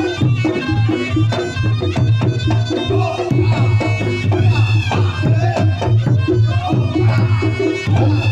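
Reog Ponorogo ensemble playing jathilan accompaniment: a slompret (Javanese shawm) melody with sliding pitch bends over kendang drumming and a steady pulsing low beat.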